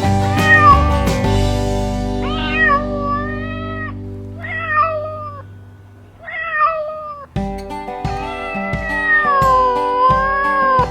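Domestic cat meowing about five times, short meows at first and then one long, wavering meow near the end, over background music with guitar strums.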